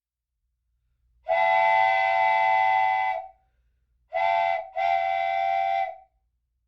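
A horn or whistle sounding a chord of several steady tones, blown three times: a long blast, a short one, then another long one.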